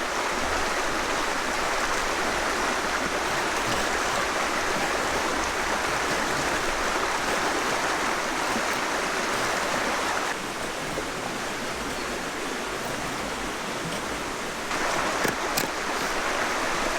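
Steady outdoor rushing noise with no clear rhythm, dropping a little for a few seconds partway through, with a few faint clicks near the end.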